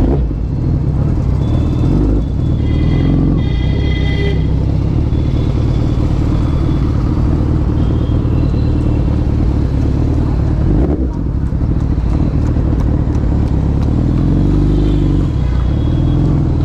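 Motorcycle engine running close by, a steady loud low-pitched sound, with road traffic around it.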